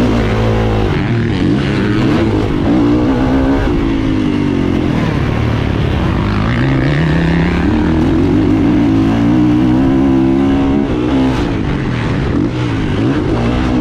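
Kawasaki KX450F motocross bike's four-stroke single-cylinder engine being ridden hard. The revs rise and fall again and again.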